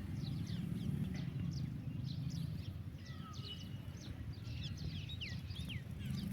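Small birds chirping: many short, quick, falling chirps scattered throughout, over a steady low background rumble.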